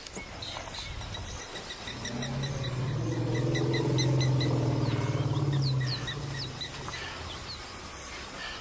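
Birds chirping in a quick, regular series, with a few upswept calls, over a low droning sound that swells and fades over about four seconds in the middle.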